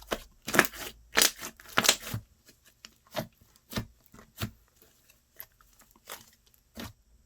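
Slime being worked by hand: three louder sticky squelches and crackles in the first two seconds, then a string of smaller pops and clicks about every half second.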